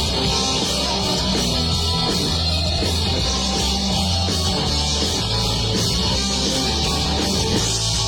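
Heavy metal music played by a rock band: electric guitar and drums with a steady beat.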